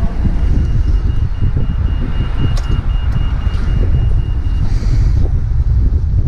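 Riding noise on a helmet-mounted camera: wind buffeting the microphone over the running engine of a Honda Grom 125 motorcycle. A high electronic beeping pulses rapidly alongside it and stops about four and a half seconds in.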